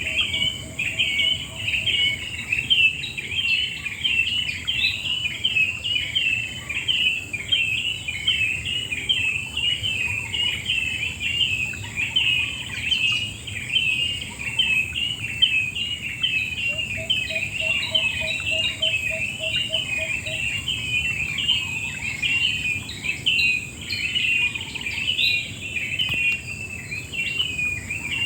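A dense chorus of birds chirping and twittering without a break, over a steady high-pitched insect drone and a low even rushing background. Twice, near the start and about seventeen seconds in, a short series of low, evenly spaced call notes sounds for a few seconds.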